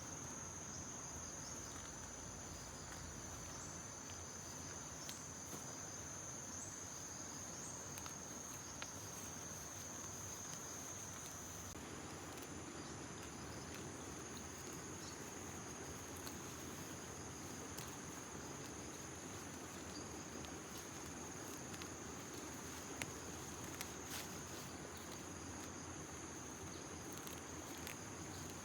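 Insects trilling in a steady high-pitched drone over outdoor background noise, with a few faint clicks. The trill weakens a little about twelve seconds in.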